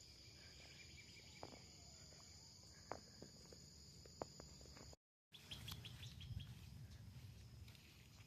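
Faint swamp ambience: a steady high-pitched insect drone with a few short, sharp bird chirps. The sound drops out for a moment about five seconds in, and after that the drone is gone and the background is a little louder, with more chirps.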